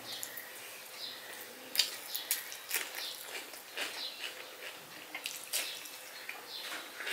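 Close-up eating sounds: chewing a mouthful of rice and fried greens with wet smacks and mouth clicks at irregular intervals.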